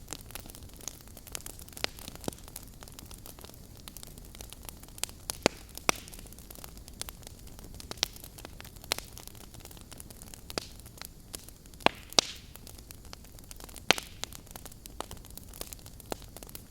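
Wood fire crackling in a fireplace: irregular sharp pops and snaps over a steady low hiss of burning, with a few louder pops scattered through.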